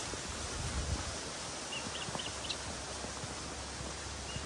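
Outdoor bush ambience: a steady hiss with a few short, high bird chirps about two seconds in and again near the end, over soft low thumps of footsteps on a paved path.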